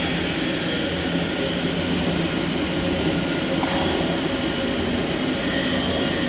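Heavy machinery running steadily and loudly: a constant drone with several steady hum and whine tones and no change in speed.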